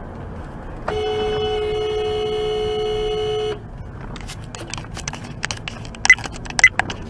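A vehicle horn held for nearly three seconds, one steady note. Then a run of sharp clicks and a few short, high beeps.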